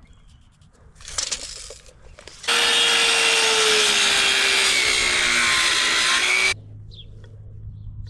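Power saw cutting through wood for about four seconds, its motor note dropping slightly under load, then cutting off suddenly.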